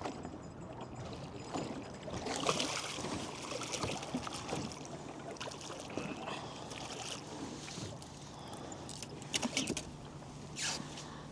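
Scattered small knocks, rattles and rustles of gear being handled in a boat, over a faint steady low hum.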